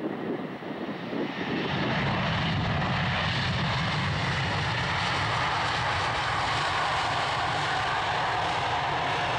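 Jet engines of an Emirates Airbus A380 passing close by. A steady loud jet noise builds up about a second and a half in, with a faint tone that slowly falls in pitch.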